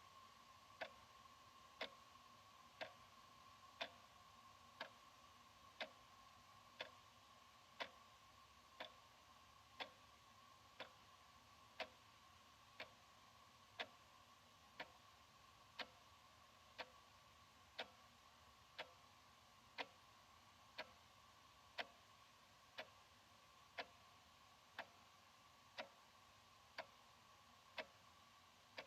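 Analog wall clock ticking quietly, one sharp tick about every second, evenly spaced. A faint steady high tone hums underneath.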